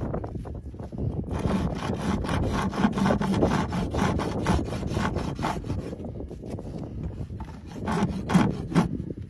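Farrier's rasp filing down a horse's hoof in repeated back-and-forth strokes.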